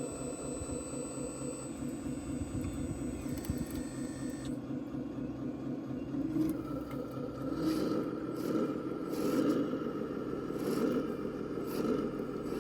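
Radio-controlled scale model vehicles running: a steady mechanical engine hum. About six seconds in a steady high whine joins it and the sound grows louder, with clattering.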